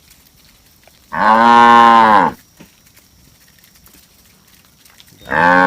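Cow mooing twice: one long moo starting about a second in, and a shorter one near the end, each rising slightly in pitch and then falling away.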